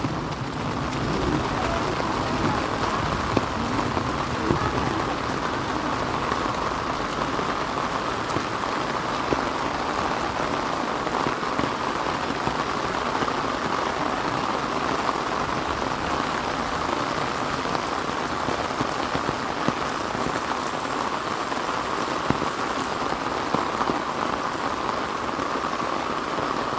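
Heavy rain falling steadily, a dense even patter of drops on wet ground and surroundings.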